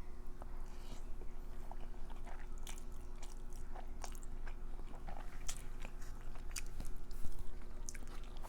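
Close-miked chewing and mouth sounds of a person eating, with scattered short wet clicks and smacks, over a faint steady hum.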